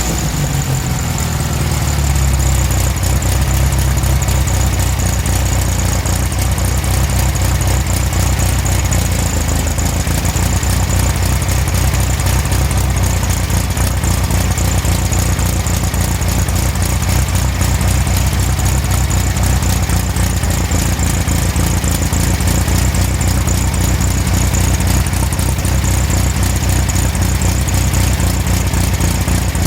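Air-cooled VW Beetle flat-four engine idling steadily, settling down from a rev in the first couple of seconds. It is running on a newly installed CB Performance Magnaspark II electronic distributor, coil and plug wires.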